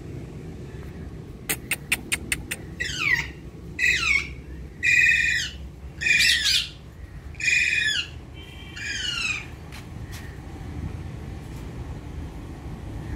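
Pet ringneck parakeet squawking: six harsh calls, each falling in pitch, after a quick run of sharp clicks. A steady low rumble sits underneath.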